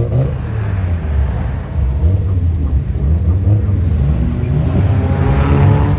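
Car engine rumbling loudly, revving with a rising pitch near the end.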